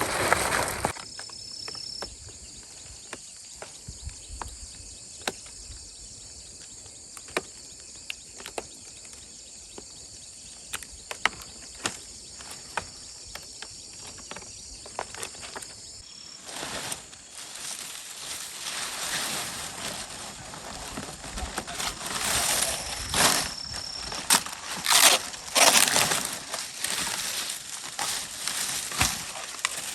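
Outdoor rustling and crunching, as of dry material being handled, with scattered sharp clicks and knocks over a steady high hiss; the rustling grows louder and busier about halfway through.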